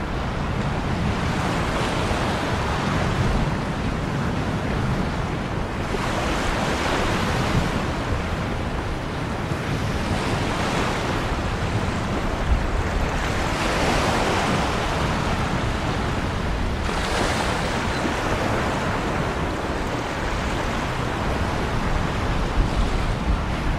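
Ocean waves breaking and washing in a continuous rush, swelling in surges every few seconds.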